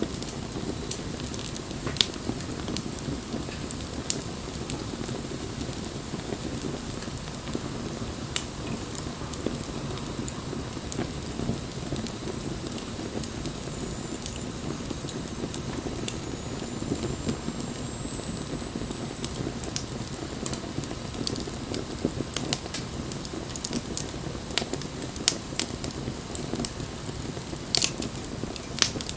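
Wood bonfire burning with a steady rushing hiss of flames, broken by scattered sharp crackles and pops from the burning wood, several close together near the end.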